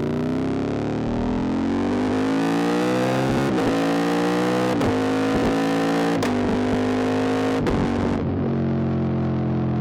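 QJ Motor SVT650X motorcycle's 650 cc V-twin through an aftermarket Arrow Racetech exhaust, accelerating hard and shifting up about five times in quick succession, each clutchless quickshifter upshift a short sharp break in the engine note. About eight seconds in the throttle eases and the engine settles to a steady, even note.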